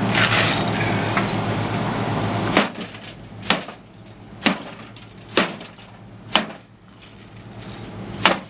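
Six sharp blows on a microwave's metal casing, about one a second, starting about two and a half seconds in, with small metallic clinks between them. Before the blows, a steady noise with a low hum cuts off suddenly.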